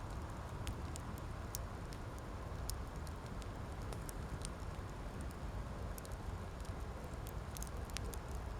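Wood campfire burning: scattered sharp crackles and pops, a few a second and unevenly spaced, over a steady rushing background.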